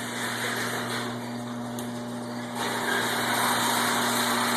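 Electric garage door opener running with a steady motor hum as the door moves, getting louder about two and a half seconds in.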